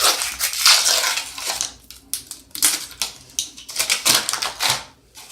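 Irregular rustling and clicking of paper being pulled out of a glass jar of baking soda and handled.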